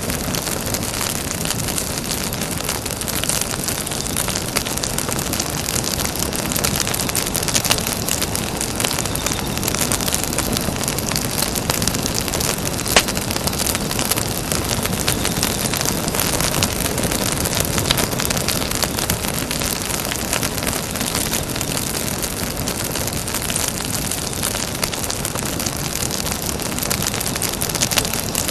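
Campfire burning: a steady dense rush of flame noise full of small crackles, with one sharper pop about thirteen seconds in.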